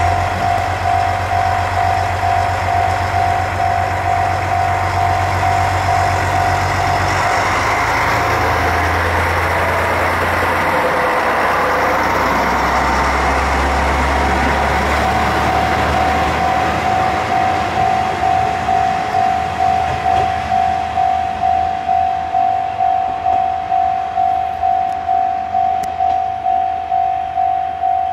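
A JR Shikoku diesel railcar pulls away and passes close by. Its engine hum drops in pitch twice, and loud rail and wheel noise peaks mid-way and then fades as the car runs off. Throughout, a level-crossing warning bell rings in a steady, even clang, about one and a half strikes a second.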